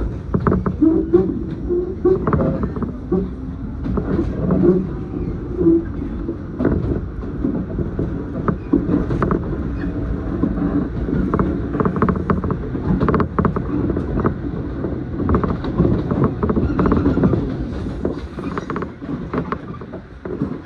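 Running noise of an electric commuter train heard from inside the carriage: a steady rumble with frequent clicks and rattles from the wheels and the car body.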